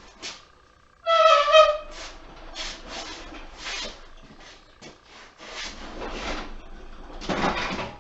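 Tools and hardware being rummaged and handled, with repeated short rattles and clatters. About a second in there is a short, loud, high squeak.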